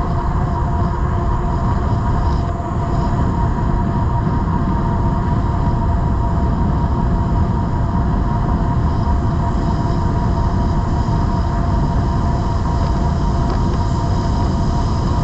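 Cyrusher Kommoda e-bike riding at a steady speed: a continuous rumble of wind on the microphone and tyre noise, with a steady whine from the electric motor.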